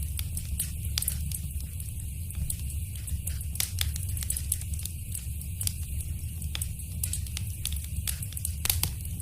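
Fireplace fire crackling: a steady low rumble of the flames with irregular small pops and snaps throughout, and a few louder pops near the end.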